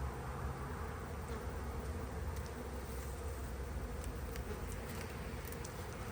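Honey bees buzzing steadily around an opened hive, with a few faint clicks.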